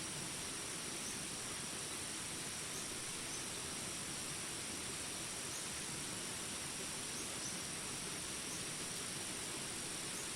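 Steady rain hiss under a continuous high-pitched insect drone, with short faint chirps scattered throughout.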